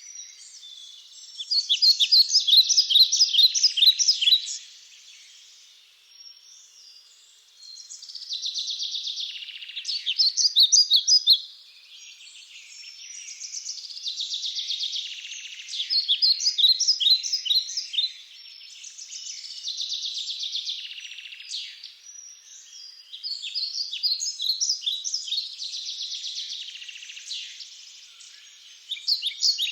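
Birds calling in loud bouts of rapid chattering chirps, each bout lasting a few seconds, with quieter calling between the bouts.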